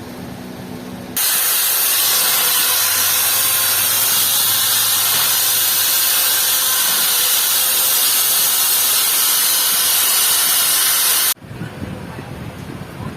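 A loud, steady hiss that starts suddenly about a second in and cuts off suddenly about ten seconds later.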